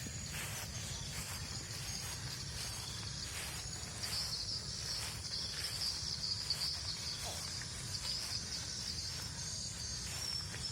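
Steady, high-pitched insect chorus chirring continuously, over a low rumble and scattered faint clicks.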